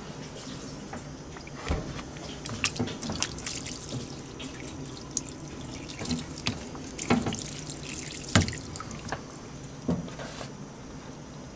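Water from a gravity-fed siphon hose running steadily into a washing machine as it fills, with a few sharp clicks, the loudest about eight seconds in.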